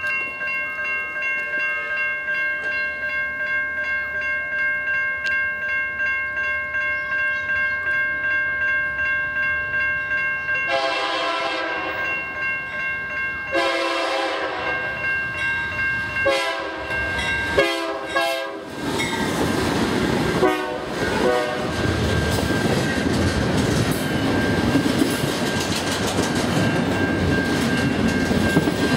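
Grade-crossing warning bells ringing steadily, then a BNSF freight locomotive's air horn sounding four blasts, two long and two shorter, the standard crossing signal. After the horn the rumble and wheel clatter of the double-stack intermodal train build as it rolls past.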